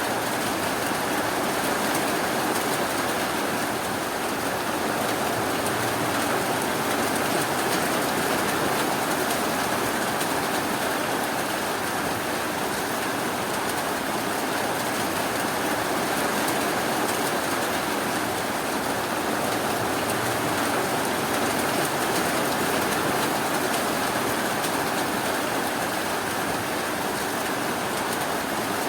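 Steady rain falling, a constant even hiss with no thunder.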